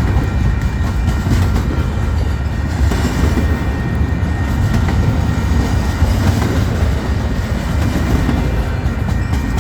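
Freight train cars rolling past at speed: a steady heavy rumble with the wheels clattering rapidly over the rails.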